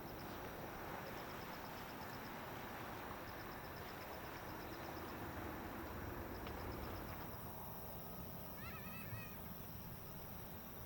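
Faint, distant jet airliner noise that dies away about seven seconds in. Insects chirp in rapid pulsed trills through the first half, and a short wavering animal call comes about eight and a half seconds in.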